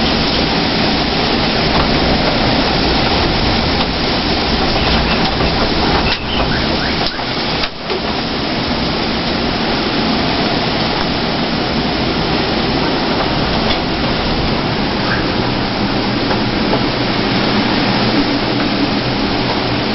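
Hurricane-force typhoon wind blowing loud and steady with rain, dipping briefly about six and eight seconds in.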